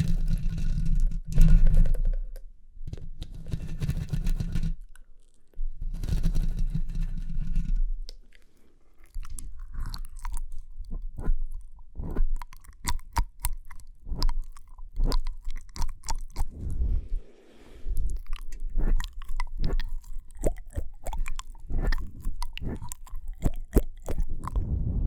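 Close-miked ASMR mouth sounds: wet clicks, smacks and tongue pops in quick irregular succession, dense from about nine seconds in. The first few seconds hold low muffled bursts.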